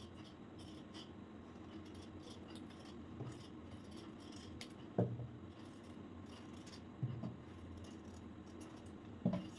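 Quiet room with three soft low thumps a couple of seconds apart and faint scattered clicks, like objects being handled or set down.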